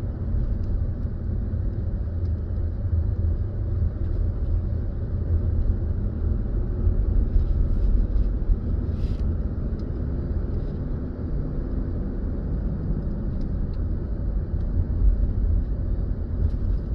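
Car driving along a road: a steady low rumble of engine and tyres, heard from inside the car, with a few faint clicks.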